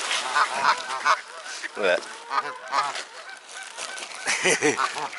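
A crowd of waterfowl honking loudly: many short, repeated honks, overlapping and coming in quick succession.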